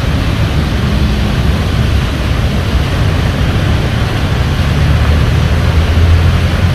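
Loud, steady rumble of road traffic and vehicle engines, heaviest in the low end and swelling slightly about five seconds in.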